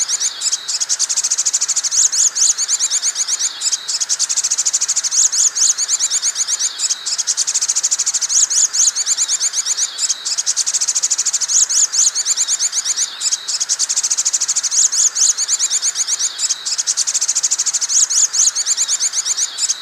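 Sogon bird lure call: rapid, high-pitched trills, repeated in phrases about every two seconds.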